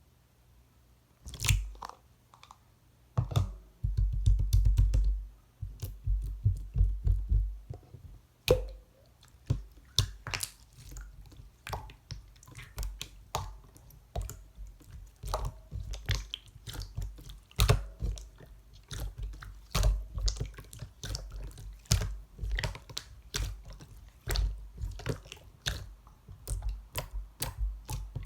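Hands pressing, stretching and folding a clear slime, making irregular sticky clicks and pops, with a quick run of them about three to five seconds in.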